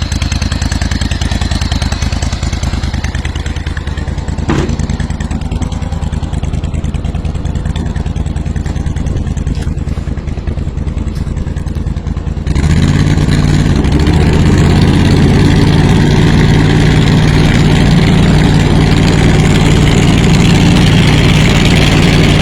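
Kohler Command 25 V-twin engine of a Steiner zero-turn mower running steadily; about twelve seconds in it suddenly becomes louder and fuller and holds there.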